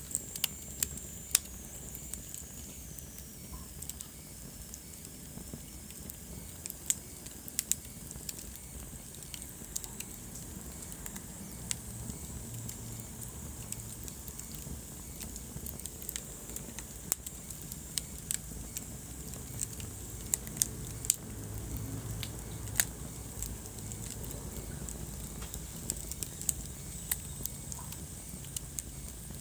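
Wood fire burning in a fireplace: irregular sharp crackles and pops over a low, steady rumble of flame. In the first few seconds a faint high whistle slides down in pitch.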